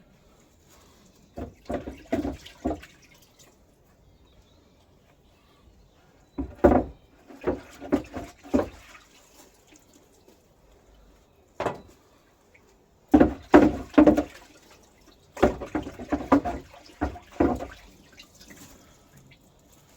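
Old fuel sloshing and splashing inside a cast iron fuel tank as it is washed out, in five separate bursts.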